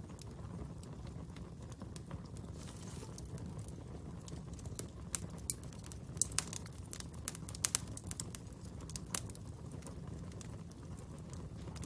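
Fire crackling: a steady low rumble of flames with scattered sharp pops, most of them bunched together in the middle.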